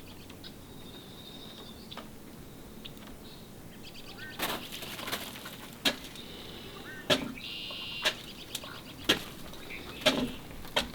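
Sharp taps at irregular intervals, about one a second from a third of the way in, of mallards' bills striking the feeding dish as they eat. Small birds twitter nearby.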